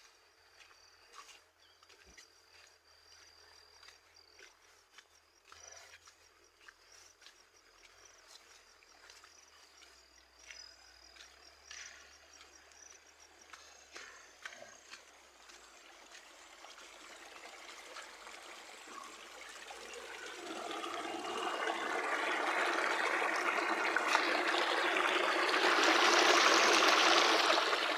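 Small stream of running water trickling, faint at first and growing steadily louder over the second half until it fills the sound near the end.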